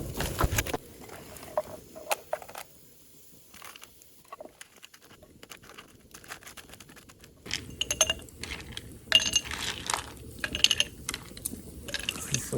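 Scattered light clinks and knocks of small hard objects being handled, some with a brief high ring. They come early, fall quiet for a few seconds, then come thick again from about halfway through.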